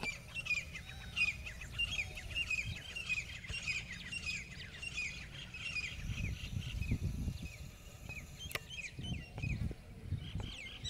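Birds calling outdoors in a rapid run of short, falling chirps, busiest in the first half and picking up again near the end. Gusts of wind rumble on the microphone about halfway through and again a little later.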